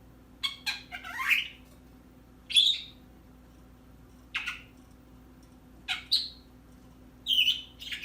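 Pet bird calling: short chirps and squawks in brief clusters every second or two.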